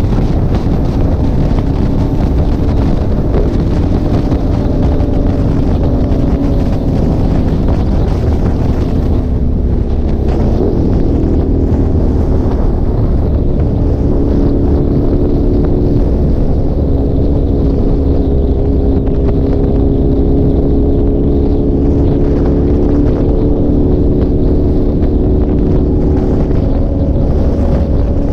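Motorcycle engine running at freeway cruising speed under heavy wind noise on the microphone. Its note dips about ten seconds in, then climbs slowly.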